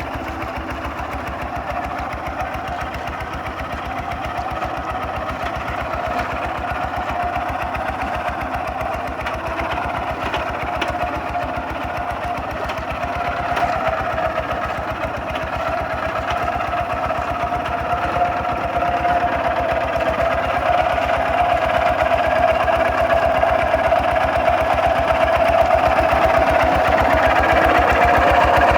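Kubota RT 140 DI walking tractor's single-cylinder diesel engine running steadily with a fast, even chug, growing gradually louder.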